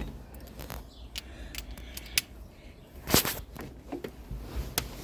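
Scattered, irregular light clicks and knocks of hand tools and metal parts being handled, with a louder short scrape about three seconds in.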